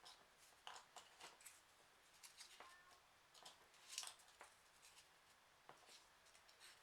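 Faint rustling and light clicks of folded paper pieces being handled and pushed into a 3D origami model, with a brief faint high tone a little under halfway.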